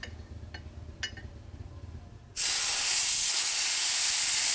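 Compressed-air blow gun blasting a steady hiss into the side-oiler crankshaft's oil passage, starting suddenly about two and a half seconds in, to check that air comes out of all its oil holes. A few light clicks come before it.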